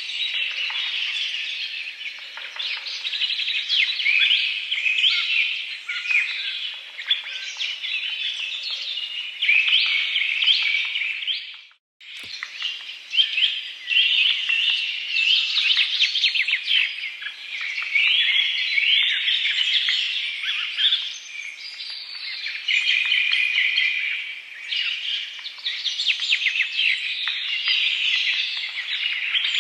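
Dense chorus of many birds chirping and calling over one another, cut off by a brief silent gap about twelve seconds in before it resumes.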